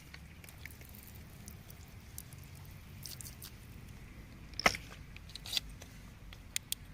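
Hand tools clicking and tapping against stone and damp soil while digging: a handful of sharp clicks, the loudest one just past the middle and two quick ones near the end, over a low steady rumble.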